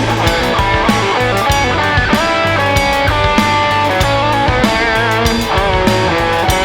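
Rock band playing an instrumental break: an electric lead guitar plays a melody with bent, wavering notes over bass and a steady drum beat.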